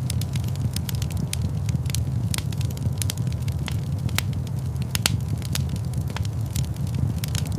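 Wood fire burning in a large stone fireplace: a steady low rumble of flames with frequent sharp crackles and pops at irregular intervals.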